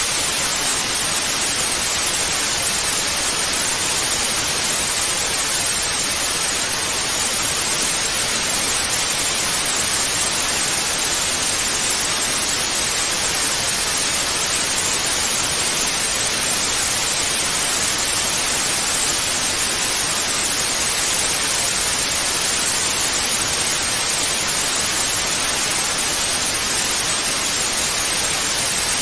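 Analogue television static hiss, a steady even white-noise rush weighted toward the high end, with no changes.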